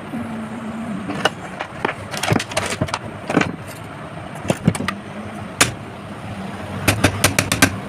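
Irregular sharp clicks and knocks, over a steady low hum and street traffic noise.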